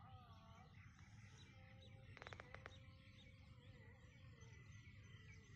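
Faint birdsong: several birds chirping and calling over a low steady rumble, with a quick run of about five or six clicks a little past two seconds in.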